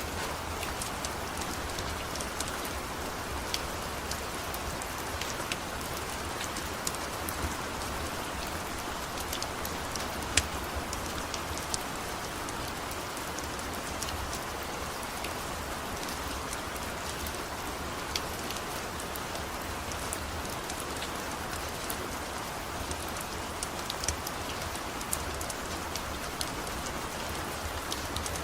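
Steady rain falling, with scattered sharp crackles and pops from a wood-burning fire.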